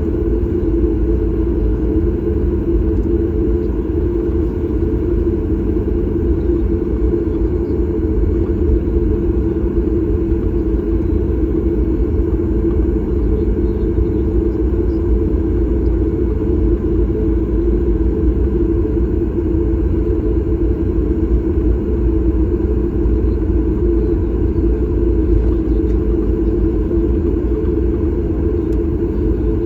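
Cabin noise of a Boeing 737 MAX 8: the steady low rumble of its CFM LEAP-1B engines and the airflow, heard from inside the passenger cabin, with no change in pitch or level.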